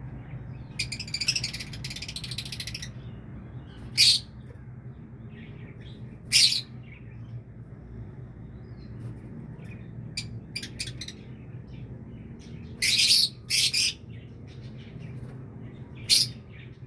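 Birds chirping: a fast chattering trill lasting about two seconds near the start, then sharp high calls at intervals, the loudest a quick group of three about 13 seconds in. A steady low hum runs underneath.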